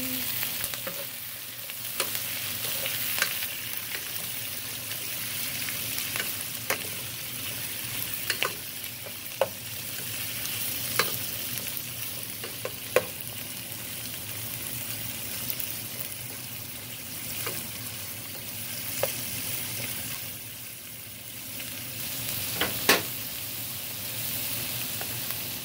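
Chicken and vegetables sizzling steadily in a hot frying pan as they are stirred, with scattered sharp taps of the stirring utensil against the pan, the loudest near the end.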